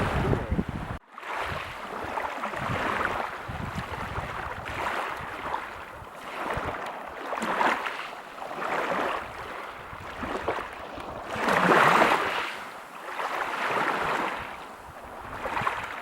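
Ocean waves breaking on a beach, the surf rising and falling in swells every couple of seconds, the largest about twelve seconds in. The sound cuts out for a split second about a second in.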